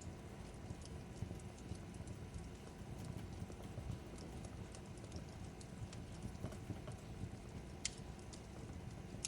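Fireplace crackling: a steady low rumble of burning wood with scattered sharp snaps and pops, one louder pop near the end.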